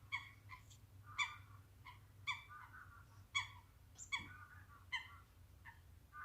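A bird calling: short, clear notes repeated about once a second, faint against a low background hum.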